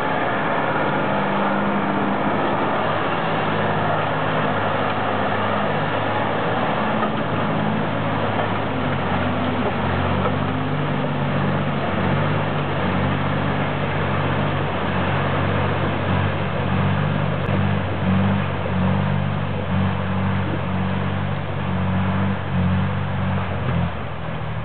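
Truck engine running steadily under load, its pitch shifting up and down over a constant wash of mechanical and driving noise.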